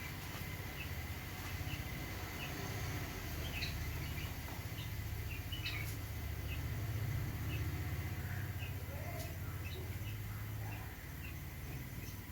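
A small bird chirping: short, high chirps repeating about every two-thirds of a second, over a steady low hum.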